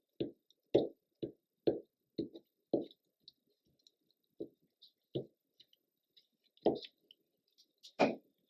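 Glue stick rubbed onto paper in short, sticky strokes: a quick run of about seven strokes in the first three seconds, then a few more spaced out.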